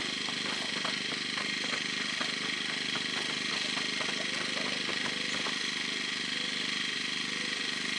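An engine idling steadily, with a few faint clicks and knocks over it.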